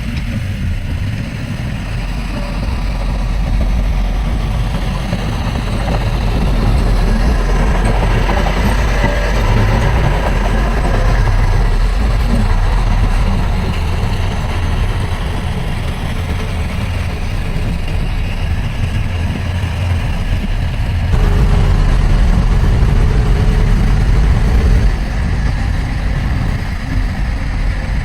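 Heavy diesel engine of earthmoving machinery running steadily, with a deep low rumble, growing louder about 21 seconds in.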